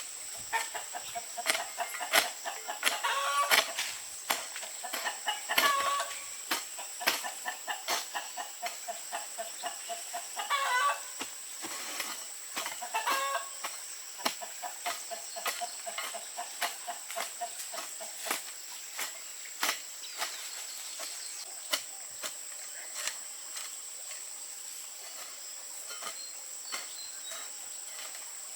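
Chickens clucking, with several louder cackling calls in the first half, over a steady high-pitched drone and scattered sharp clicks.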